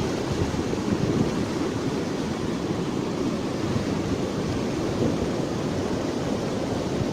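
Steady, even rushing noise of stormy weather, with no single knock or event standing out.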